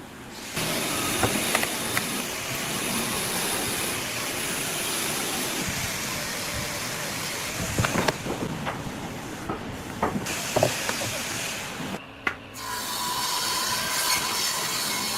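Steady rasping noise of a tool working wood, with a few sharp knocks. It breaks off briefly about twelve seconds in, then starts again with a faint steady tone in it.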